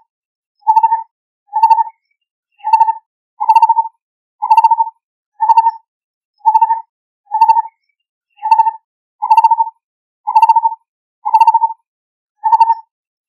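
Lineated barbet calling: a low, mellow note repeated about once a second, each note a short rolling burst, with silence between.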